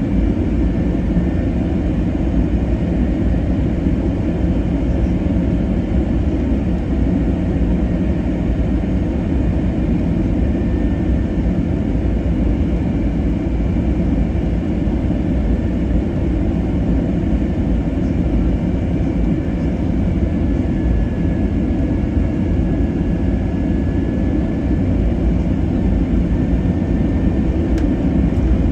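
Steady cabin noise aboard an Airbus A321neo: a low, even rumble of engines and airflow, with a faint steady whine above it.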